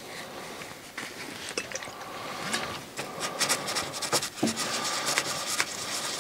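A small part being rubbed and wiped clean by hand with isopropyl alcohol: irregular scratchy rubbing with small clicks and knocks, busier in the second half.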